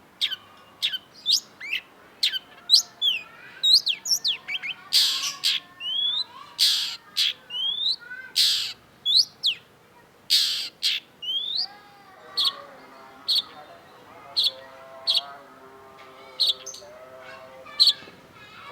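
Long-tailed shrike singing: a rapid string of sharp, quick whistled notes sweeping up and down, broken by a few harsh rasping calls midway. In the second half it turns to short high chips about once a second over a softer, lower warbling.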